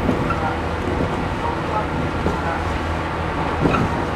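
Cabin noise inside a 113 series electric multiple unit running along the line: a steady rumble and hum from the wheels and running gear, with one sharper knock near the end.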